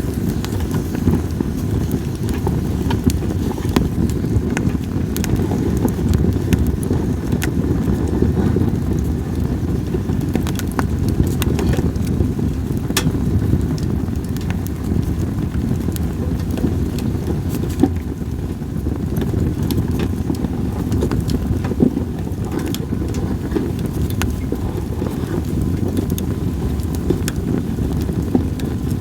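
Campfire of split sawtooth oak (kunugi) logs crackling, with frequent sharp pops scattered irregularly over a steady low rumble.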